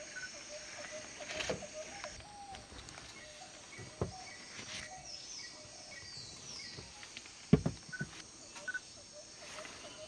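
Outdoor jungle ambience with birds calling: a run of short chirps over the first few seconds and a few quick falling whistles around the middle, over a faint steady background. A few short sharp knocks break in; the loudest is a double knock about three-quarters of the way through.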